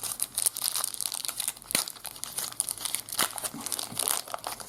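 Trading card pack wrapper crinkling and tearing as it is opened by hand, an irregular run of sharp crackles and rustles.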